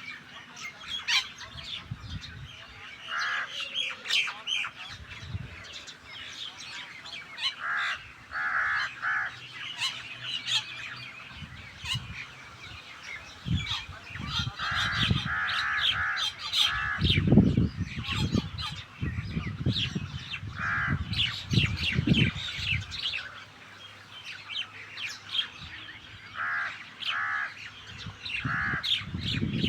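Starlings and mynas calling as they feed: a steady scatter of chattering chirps and clicks, with short pitched calls in groups of two or three every few seconds. Dull low thumps come and go through the middle.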